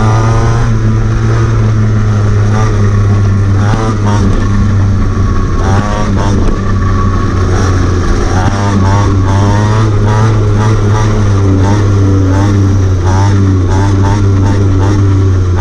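Mototec Demon 50cc pit bike engine revving, its pitch rising and falling repeatedly as the throttle is worked.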